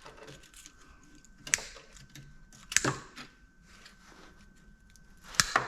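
Three sharp metal knocks at uneven gaps, the loudest near the end, from pieces of scrap motor metal being struck or set down, with a faint steady high whine underneath.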